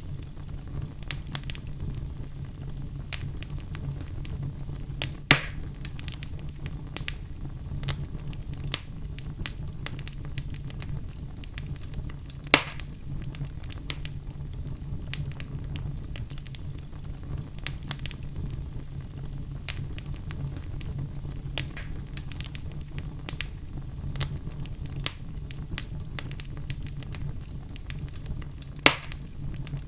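Wood logs burning in a fireplace: a steady low rumble of flame under constant small crackles, with three sharp, louder pops, about five seconds in, about twelve seconds in, and near the end.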